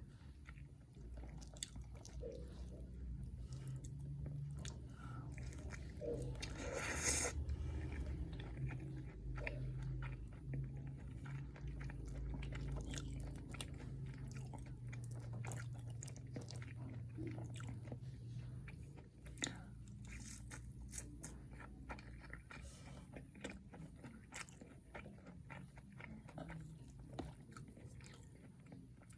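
Close-miked chewing and biting of fried milk tofu: wet chewing with crisp crackles and crunches, the loudest crunch about a quarter of the way in.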